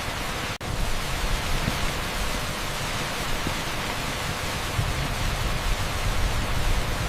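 Heavy downpour on an asphalt street blended with pink noise: a steady, even hiss with a momentary dropout about half a second in.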